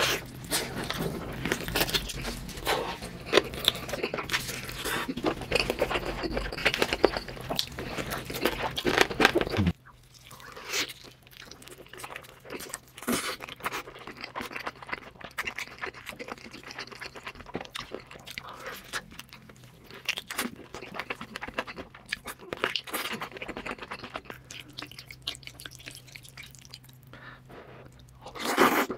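Close-miked eating: loud, dense chewing and crunching of glazed chicken, then after an abrupt cut about ten seconds in, quieter, sparser wet chewing of black bean noodles. A short loud slurp of noodles comes near the end.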